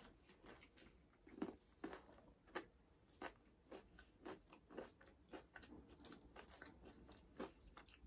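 Faint mouth sounds of people chewing food with soft crunches, roughly one or two a second.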